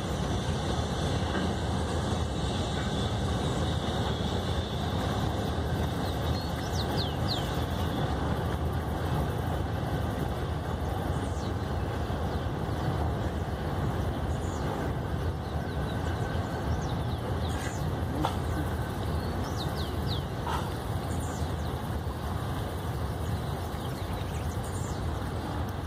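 Container freight train rolling steadily across a high girder viaduct, a continuous low rumble. A few short, high, falling chirps sound over it now and then.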